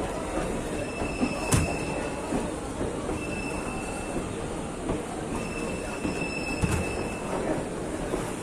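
Express passenger train's coach wheels squealing against the rails in a thin, high whine that comes and goes over a steady running rumble, with a couple of sharp knocks.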